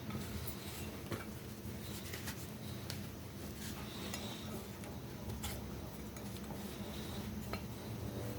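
Scattered light clinks and taps of crockery or metal being handled, with a few brief high squeaks, over a low steady hum.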